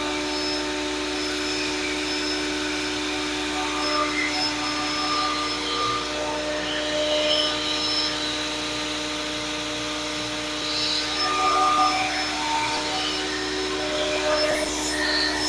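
Grizzly G0958 8-inch jointer/planer combo running as a thickness planer, its motor and cutterhead giving a steady, loud whirring hum while a board is planed, with small swells in loudness.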